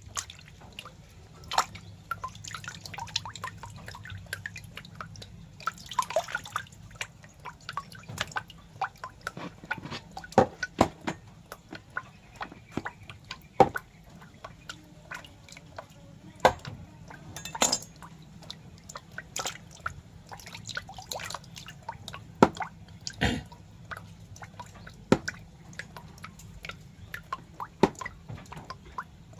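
Irregular wet clicks and drips, a few a second, some louder than others, over a faint steady low hum.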